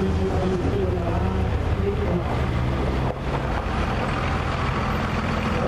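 Race car engines running steadily with a low, even hum, dipping briefly about three seconds in.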